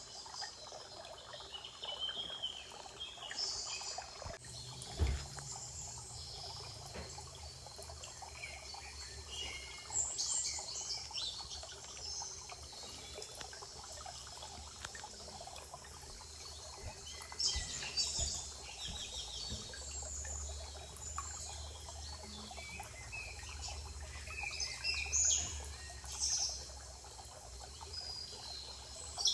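Spring forest ambience: several songbirds calling and singing in short, scattered phrases over a faint, steady trickle of water. There is a low rumble at times and a brief thump about five seconds in.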